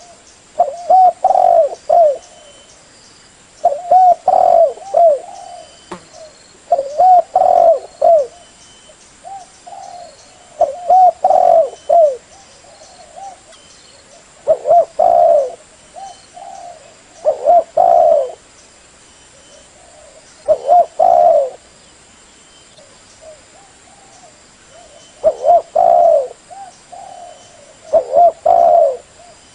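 Derkuku (spotted dove) cooing: loud phrases of three or four low coos, repeated every three seconds or so.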